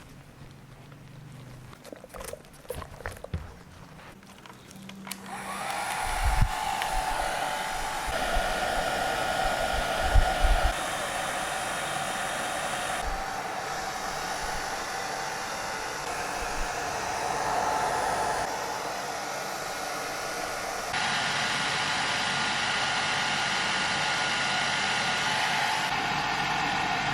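Hair dryer blowing: faint at first with a few handling knocks, then about five seconds in it comes up loud and steady with a constant whine.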